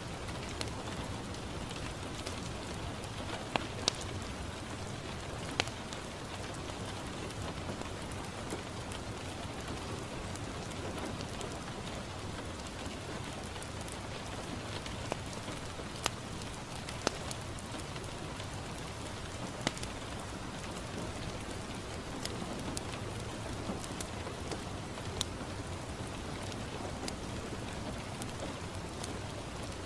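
Steady rain falling on a window pane, with scattered sharp pops from a crackling wood fire.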